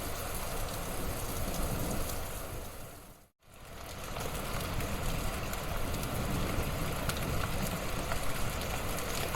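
Wood fire burning in a fireplace: a steady rushing hiss with scattered small crackles. About three seconds in it fades out to a moment of silence and fades back up.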